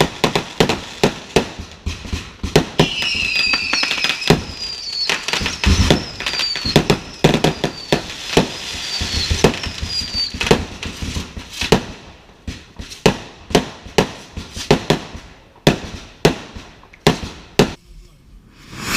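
Fireworks display: a rapid, irregular barrage of sharp bangs and crackles, thinning out over the last few seconds.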